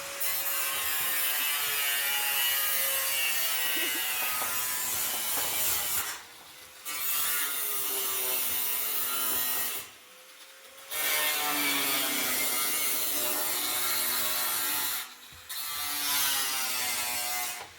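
A power tool working wood on a building site. It runs continuously in three long stretches, with short pauses between them.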